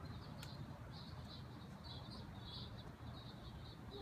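Faint high-pitched chirping from a small bird, in quick short runs, over a low steady background rumble.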